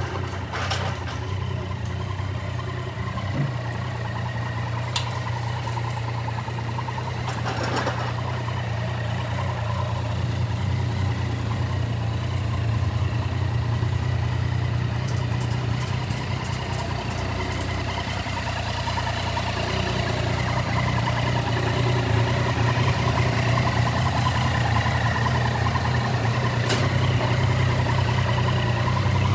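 Yamaha Tracer 900GT's three-cylinder engine idling steadily, growing a little louder in the second half.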